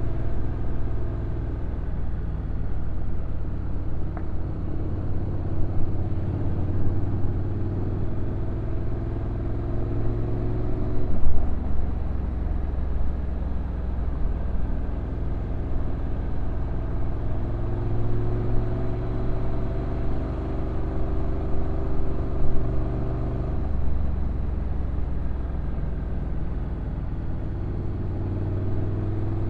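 Honda NC750X's parallel-twin engine running on the move, its pitch rising gradually and then dropping abruptly twice, about 11 seconds in and again near 24 seconds, as the DCT gearbox shifts up.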